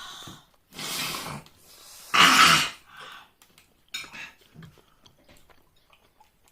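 A person coughing and breathing hard, in a few short noisy bursts, the loudest about two seconds in.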